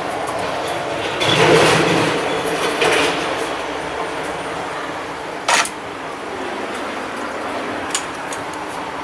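City street traffic noise, swelling as something passes about a second in, with a sharp clack at about five and a half seconds and a smaller click near eight.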